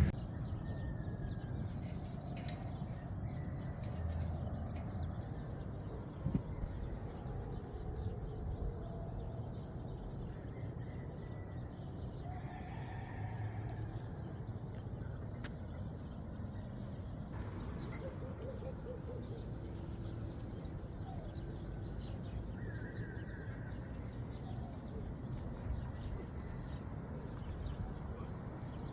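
Outdoor street ambience: a steady low hum of distant traffic with occasional bird chirps and a few faint clicks.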